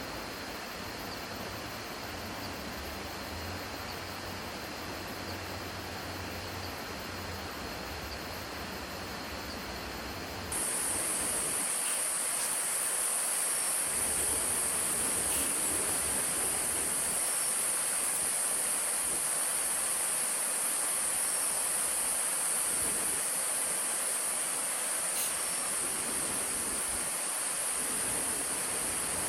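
Steady outdoor ambience with an even rushing noise and a low rumble. About ten seconds in it changes abruptly: the rumble drops away and a loud, steady, high-pitched insect drone takes over.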